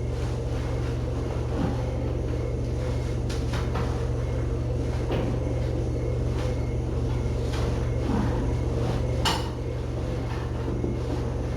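A steady low hum with scattered light clicks and knocks of things being handled, about half a dozen, the sharpest about nine seconds in.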